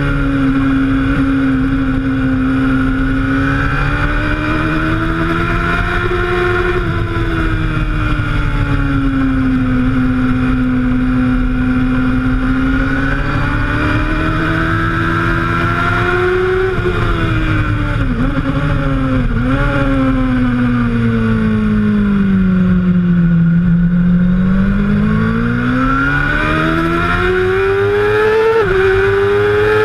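Suzuki GSX-R750 K1's inline-four engine at track speed, heard from an onboard camera over wind rush. Its pitch swells and falls through the bends, dips sharply a couple of times past the middle, then climbs hard near the end and drops quickly at a gear change.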